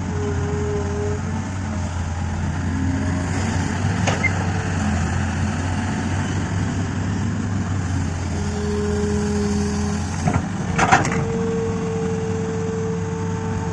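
Hitachi excavator's diesel engine running steadily under load, with whining tones that come and go as the hydraulics work. A short sharp sound comes about four seconds in, and a few knocks or clanks about ten to eleven seconds in.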